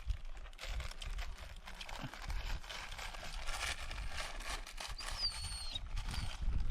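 Outdoor ambience: a low rumble like wind on the microphone, with scattered small clicks and rustles, and a short falling whistle about five seconds in.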